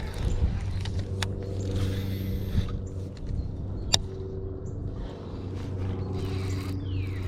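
A steady low motor hum, with two sharp clicks about one and four seconds in.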